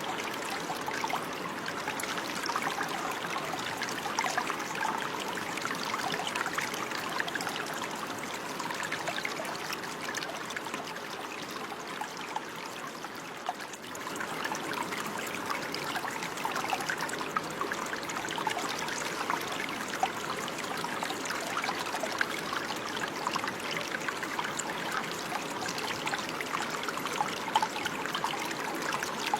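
Running water flowing steadily, a continuous trickling rush full of small splashes, briefly a little softer about halfway through.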